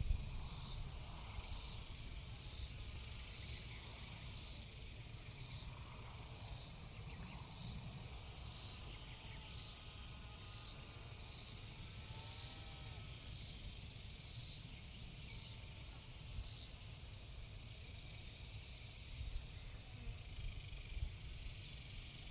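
Insects chirping: a short high chirp repeats a little more than once a second and stops about two-thirds of the way through, over a steady high buzz and a low rumble.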